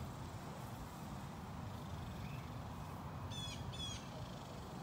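A bird calls twice, two short high calls about half a second apart, over a steady low rumble.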